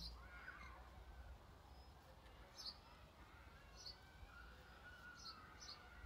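Faint outdoor ambience: a low steady rumble with a few short, high bird chirps scattered through it. No clear buzzing from the bees is heard.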